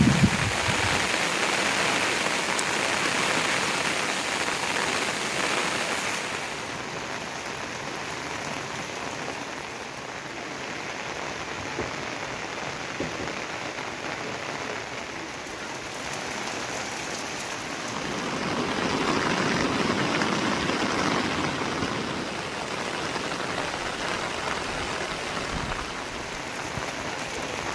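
Heavy rain falling, a steady hiss that swells louder at the start and again about two-thirds of the way through.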